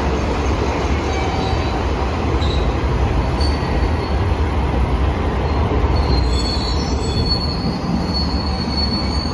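Train running with a steady low rumble, its wheels squealing high on the rails; the squeal grows strongest from about six seconds in.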